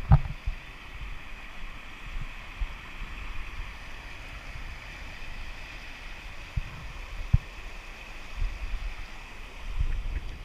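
Creek water running steadily, a continuous rushing hiss, with a low rumble of wind on the microphone and a few short low thumps.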